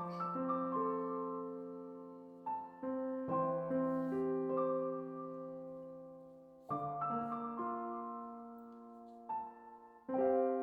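Slow, gentle piano background music: soft chords and single notes struck every second or two and left to ring out.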